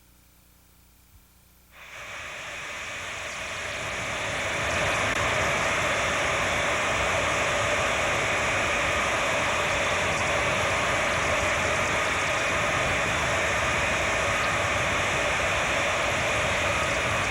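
Jet aircraft engines running: a steady, loud rushing noise that starts suddenly about two seconds in, builds for a few seconds, then holds level.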